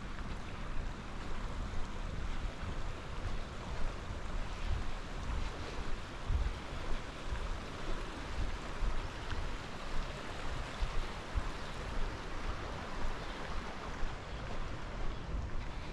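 Steady hiss of outdoor background noise with irregular low rumbles of wind buffeting the microphone.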